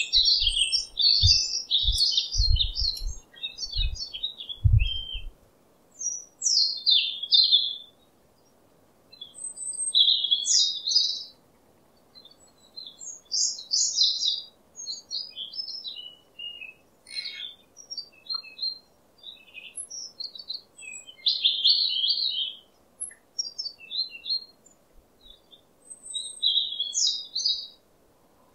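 Wild birds chirping in short high-pitched phrases with gaps of quiet between them. A few low dull thumps sound during the first five seconds.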